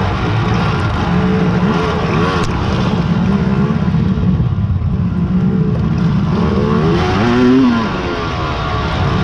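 Big-bore quad ATV engines revving and easing off, their pitch rising and falling with the throttle. One rises louder in pitch about seven seconds in.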